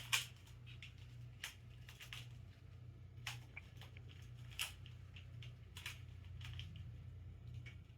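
Freshly lubricated speed puzzle being turned fast in a timed solve: faint, irregular clicks of the plastic pieces snapping round, over a steady low hum.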